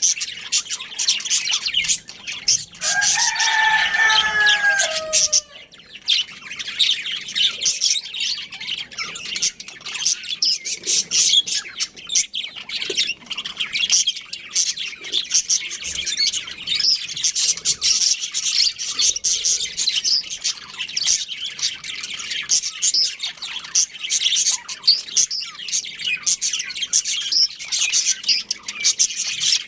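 Budgerigars chirping and chattering continuously in rapid high notes. A lower, drawn-out call with falling pitch stands out for about two seconds, starting about three seconds in.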